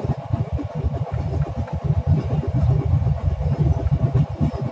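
Running noise of a Rajdhani Express passenger train at speed, heard from on board, with heavy wind buffeting on the microphone: a loud, irregular low rumble with no clear rhythm.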